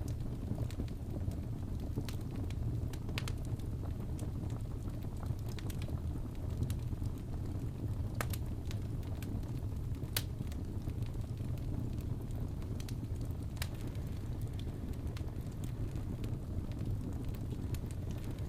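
Wood fire in a fireplace crackling: a steady low rumble of burning with irregular sharp pops and snaps every second or two.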